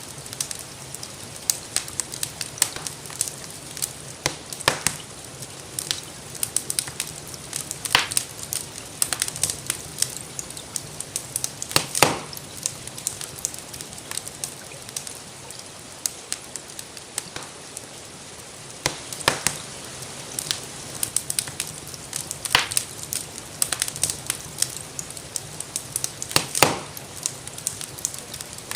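Wood fire crackling in a fireplace, with frequent small snaps and a handful of louder pops, the sharpest about twelve seconds in, over a steady hiss of falling rain.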